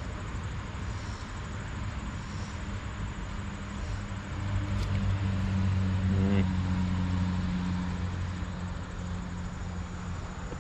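A motor vehicle passing, its low engine hum swelling about halfway through and fading a few seconds later, over a steady background hiss.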